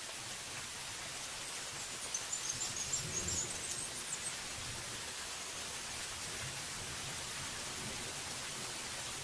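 Steady heavy rain falling on forest trees, an even hiss. About two seconds in, a brief run of high chirps sounds over the rain.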